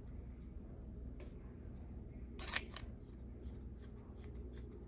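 Packaging being handled: light clicks and rustles over a low steady hum, with a sharper cluster of clicks about two and a half seconds in.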